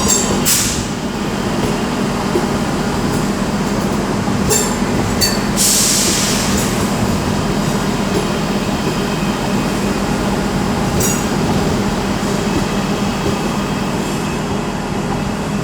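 Electric multiple-unit train moving through the station: a steady motor hum with brief high hisses and a little wheel squeal, the longest hiss about six seconds in.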